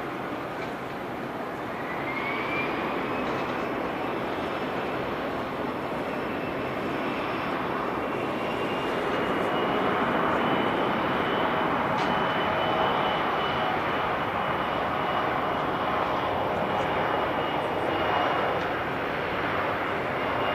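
Airliner engines running: a whine rises in pitch over the first few seconds and then holds steady over a broad roar that grows louder.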